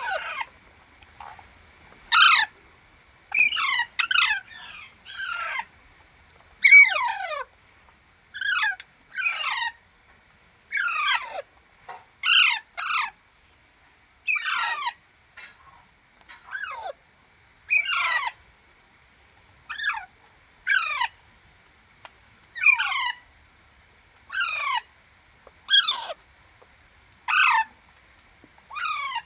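Baby parrots calling over and over: harsh, squawky calls, each falling in pitch, coming about one every one to two seconds.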